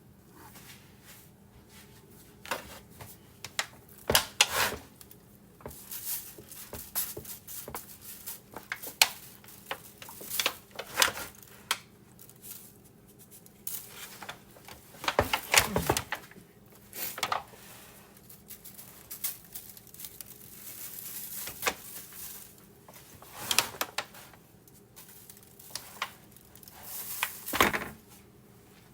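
Irregular knocks, clicks and rustling of things being handled, about a dozen louder knocks spread unevenly, over a faint steady hum.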